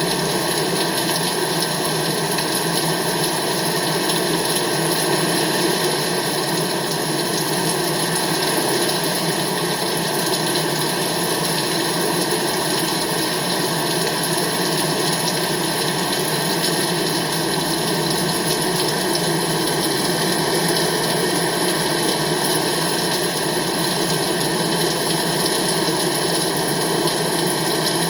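Steady, unbroken rain noise.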